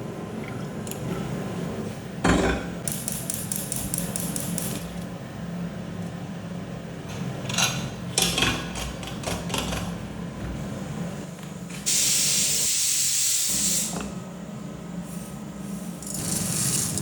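Kitchen work sounds over a steady low hum: a sharp knock, a run of rapid ticking, clattering knocks, then a loud hiss lasting about two seconds, and a shorter hiss near the end.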